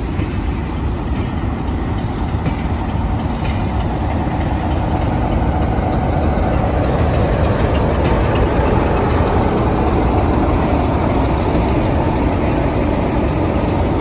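Class 47 diesel locomotive 47802 running slowly past with its long rake of carriages: a steady diesel engine sound with wheel and rail noise, growing gradually louder toward the middle and then easing slightly.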